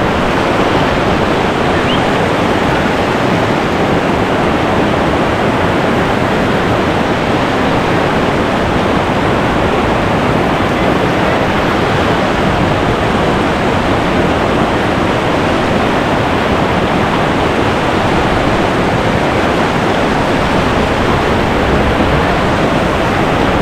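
Whitewater rapid rushing steadily and loudly, close to the microphone.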